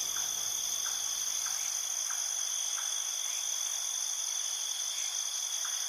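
Chorus of crickets trilling in a steady, unbroken drone, with faint short chirps repeating about every half second beneath it.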